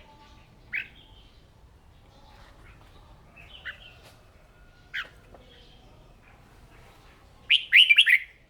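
Red-whiskered bulbul calling: single short, sharp chirps about a second, three and a half and five seconds in, then a loud burst of quick song notes near the end.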